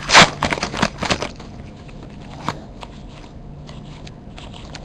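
Crinkling foil card-pack wrapper and cards being handled, a quick run of crackles and clicks in the first second or so, then quieter with a single tick about halfway through.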